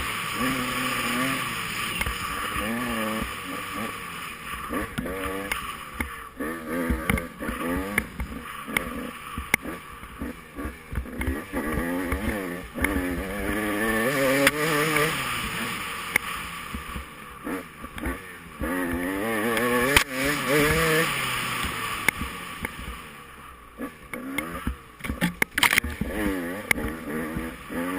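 Off-road race machine's engine revving up and easing off again and again as it is ridden hard over rough ground, with frequent knocks and clatter from the terrain.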